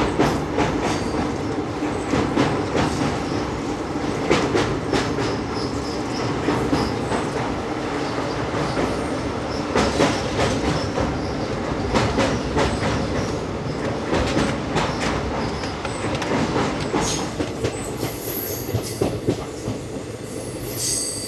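Express train running on the track, heard from aboard the coach: steady rumble with repeated clickety-clack knocks of the wheels over rail joints. Brief high-pitched sounds come in near the end.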